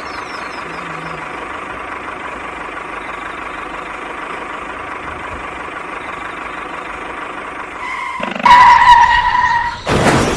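A small motor running with a steady whir. About eight seconds in it gets much louder, with a whine that dips slightly in pitch, and it ends in a burst of noise.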